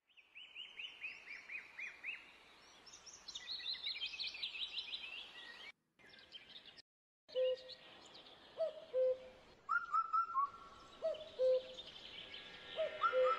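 Birdsong: quick series of repeated chirps in the first half, then short repeated calls, some low and some higher. The sound drops out briefly about six seconds in.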